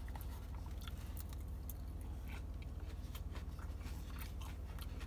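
A mouthful of green salad being chewed and crunched close to the microphone, with small crisp crunches scattered throughout, over a steady low hum.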